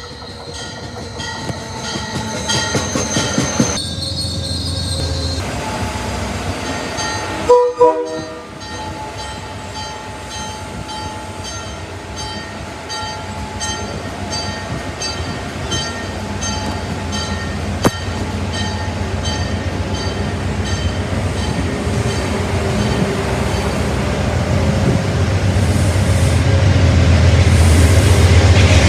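CTrail commuter train rolling past the platform, its coaches' wheels running on the rails. Two short horn blasts come about eight seconds in, and a diesel locomotive's low rumble grows steadily louder toward the end.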